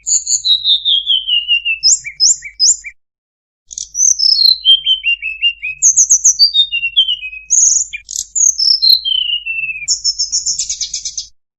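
Tledekan gunung singing a varied, fast song: rapid high trills alternating with descending runs of clear notes, with a brief pause about three seconds in and the song stopping near the end.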